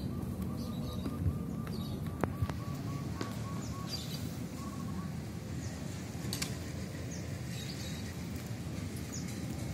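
Birds calling: a run of short, evenly spaced notes, about four a second, for the first four seconds or so, with short high chirps scattered throughout, over steady low background noise.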